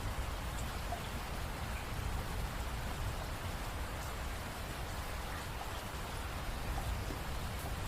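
Steady rain falling, an even hiss with a low rumble and a few faint scattered drop ticks.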